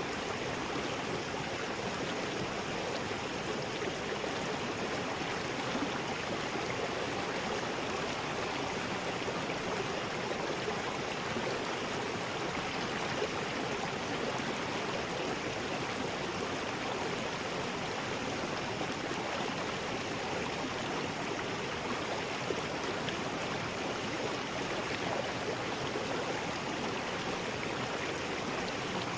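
River rapids: water rushing steadily over rocks, a constant, even rush with no break.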